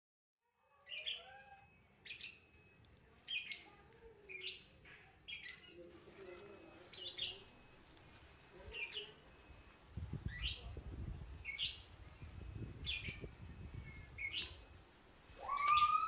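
Small bird chirping: short, high calls repeated about once a second, over a faint low rumble in the second half.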